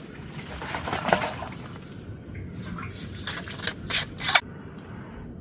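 Eating soup: a spork scraping in a metal mess tin, then several sharp clinks of the spork against the tin, the loudest about four seconds in.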